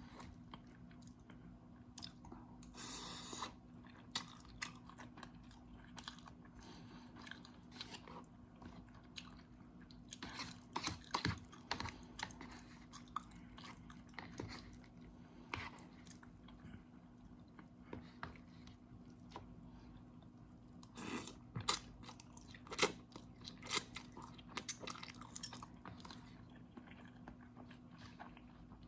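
Close-miked chewing and mouth sounds of someone eating instant noodles: irregular wet clicks and smacks, with a few louder bursts about a third of the way in and again near three-quarters, over a faint steady hum.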